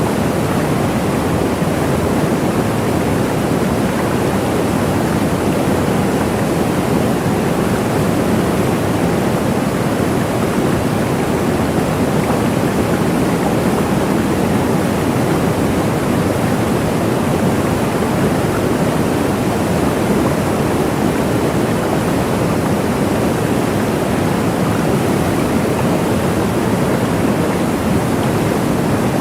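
Waterfall: a steady, even rush of falling water, deepest and strongest in its low-middle range, with no change in level.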